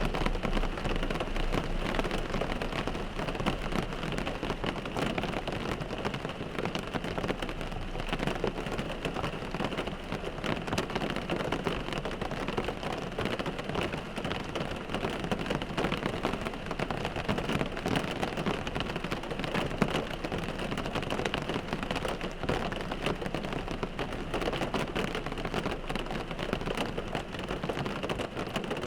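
Rain falling on a car windshield: a steady, dense stream of small drop impacts on the glass, even in strength throughout.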